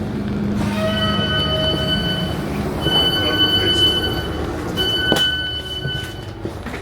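Class 455 electric train running into a station with a high-pitched squeal from the wheels, which comes in three stretches over a steady rumble. A single clunk sounds about five seconds in.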